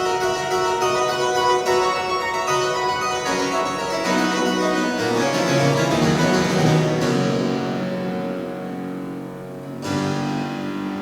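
Pipe organ playing held chords. Lower notes come in about four seconds in, the sound dies away in a long echo, and a new chord starts near the end.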